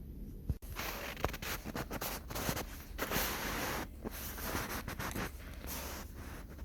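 Scraping and rustling from hands-on garden work, a dense run of short scratchy strokes that starts abruptly about half a second in.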